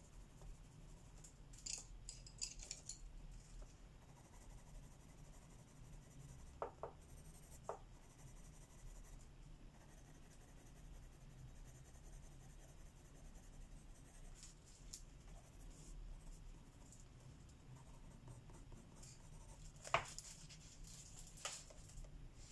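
Faint scratching strokes of a colouring tool on paper in short spells, with a few light clicks or taps, the sharpest about twenty seconds in.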